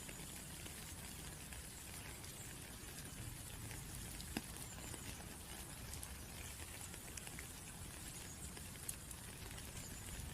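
Rain falling steadily, a soft patter of many small drops with scattered louder drip clicks, one sharper drop about four seconds in and another near the end.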